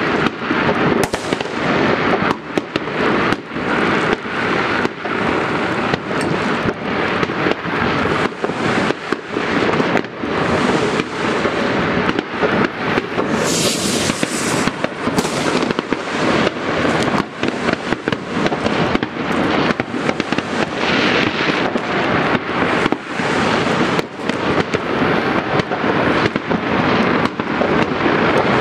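Many fireworks and firecrackers going off at once at varying distances: an unbroken run of overlapping bangs and crackles, with a brief hiss about halfway through.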